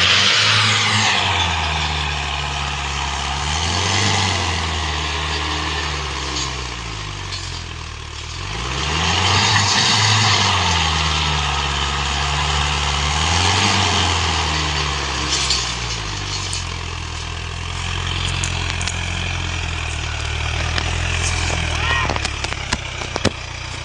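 Mahindra Arjun tractor's diesel engine running and revving up and down several times while hauling a load of sugarcane, with a few sharp clicks near the end.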